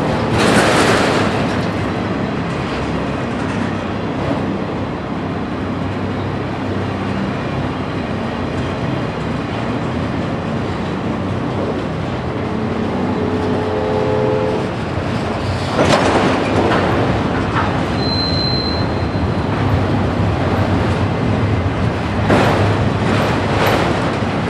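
Autorack cars of a freight train rolling past, a steady rumble of steel wheels on rail. Louder rushes of noise come about a second in, around sixteen seconds in and near the end, with a short high squeal around eighteen seconds.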